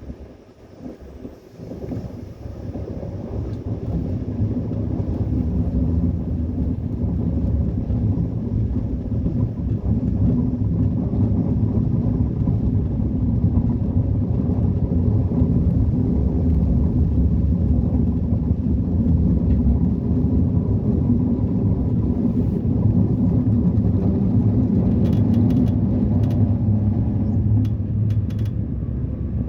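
Train rumbling by, building over the first few seconds, holding steady, then falling away near the end, with a few short crackles just before it fades.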